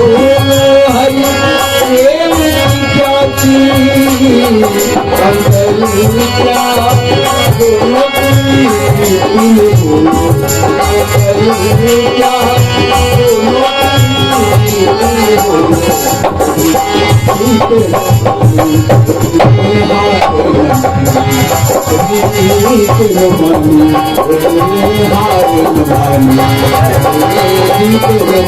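Indian devotional music played on tabla, with a gliding melody line over the drum rhythm and no clear words.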